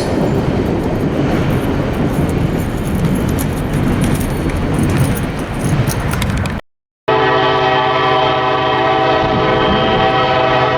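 Freight train rolling past with wheel and car noise and rail clicks. After a short cut to silence about six and a half seconds in, a diesel locomotive air horn sounds one long steady chord.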